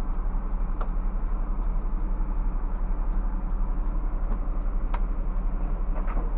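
Scania bus's diesel engine running with a low, steady drone. A few short sharp clicks or rattles come through, about a second in and twice more near the end.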